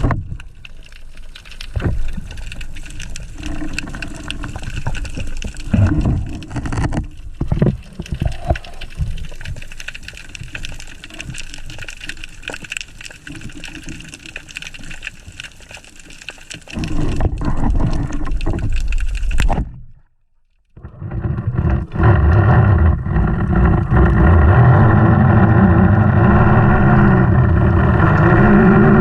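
Water splashing and bubbling with irregular knocks, as in spearfishing in the water. After a sudden break about 20 seconds in, a loud, steady motor drone like a boat engine running.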